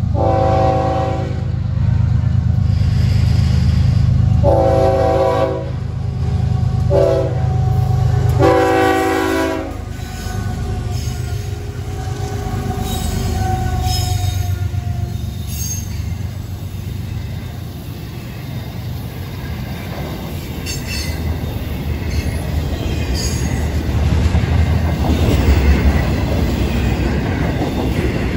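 Florida East Coast Railway freight train led by GE ES44C4 diesel-electric locomotives sounding its horn in the grade-crossing pattern (long, long, short, long) over the heavy rumble of the engines passing close by. After the horn ends, about ten seconds in, the intermodal cars roll past with a steady rumble, wheel clatter and faint wheel squeal.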